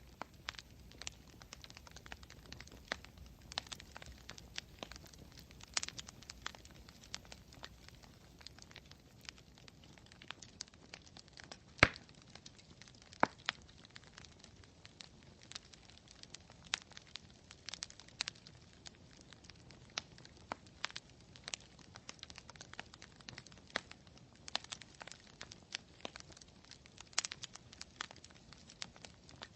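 Wood campfire crackling, with irregular sharp pops and snaps and one louder pop about twelve seconds in.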